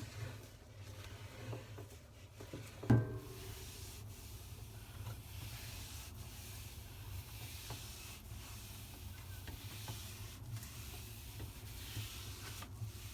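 Sponge scrubbing the inside of a refrigerator, a steady rubbing, with a single knock about three seconds in.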